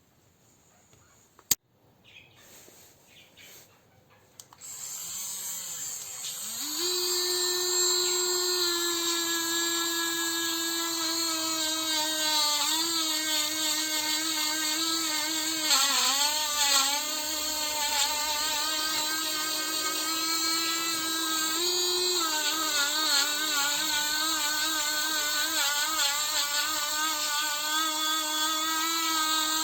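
Electric drill-type power tool spinning up about five seconds in and then running steadily with a high whine, its pitch sagging briefly a few times as it is pressed into the work.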